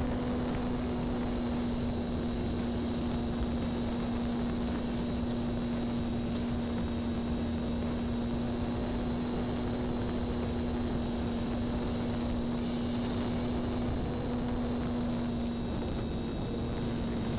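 Homemade RC plane's electric motor and propeller running at steady speed, a constant hum with a thin high whine over it, mixed with rushing air noise.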